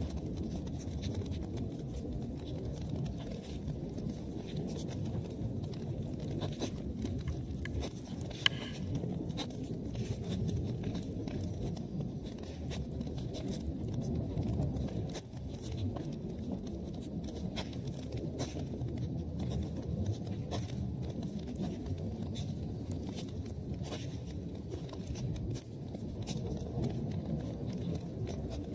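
Wood fire burning in a fireplace: a low steady rumble of flames with frequent small crackles and one sharp pop about eight seconds in.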